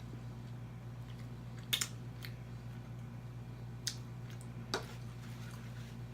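A handful of short, sharp cracks and clicks from crab legs being eaten: shell snapping and mouth sounds, over a steady low hum.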